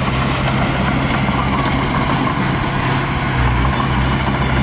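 Heavy diesel engine of earthmoving machinery running steadily, its low hum getting stronger about three seconds in.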